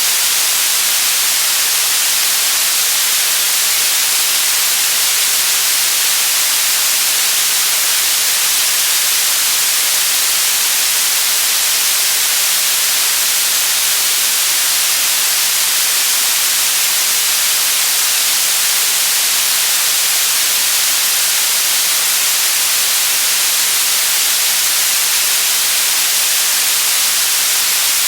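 Generated white noise: a loud, steady, even hiss, heaviest in the high end, that does not change at all.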